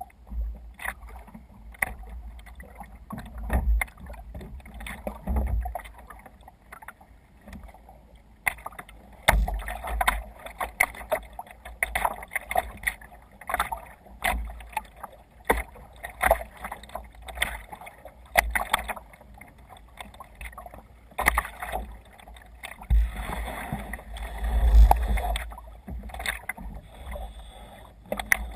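Water splashing and sloshing against a kayak's hull in irregular bursts, with wind gusts buffeting the microphone in a low rumble, strongest about three quarters of the way through.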